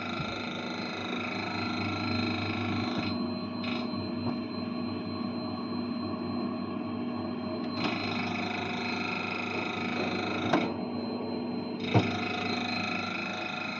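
Refrigerator running with a steady hum made of several steady tones; a higher hiss drops away twice for a few seconds, and two sharp clicks come near the end.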